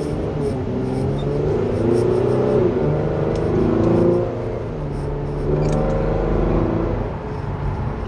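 Car engine and road noise while driving. The engine note rises and drops back a few times as the car accelerates.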